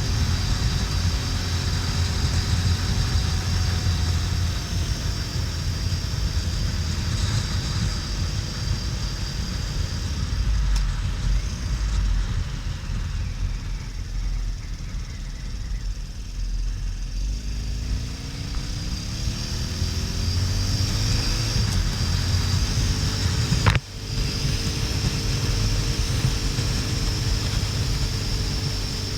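2009 Harley-Davidson XL1200N Nightster's air-cooled V-twin running on the move, with wind rushing over the microphone. The engine note falls and quietens about halfway through, then climbs as it revs up again, breaks off sharply for an instant a little before the end, and runs steady after that.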